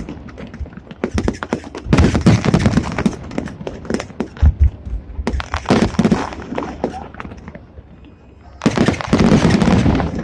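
Fireworks going off in rapid crackling volleys of many sharp bangs, in three clusters with quieter gaps between them.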